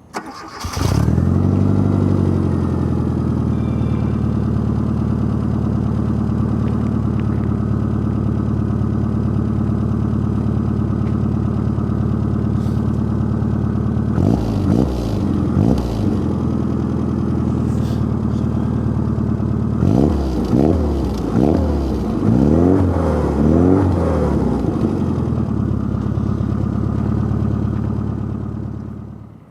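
Rover Mini's A-series four-cylinder engine through a KingsRoad stainless-steel exhaust: it starts and flares up, then settles into a steady idle. About halfway through come two short throttle blips, later a run of quick revs, and near the end the engine is switched off.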